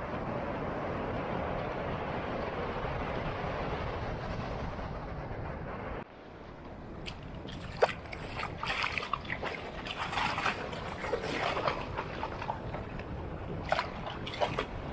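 Steady wind and surf at the sea's edge. About six seconds in it breaks off and gives way to shallow sea water splashing and sloshing in many short bursts.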